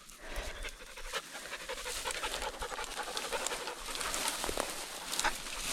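Dog panting steadily.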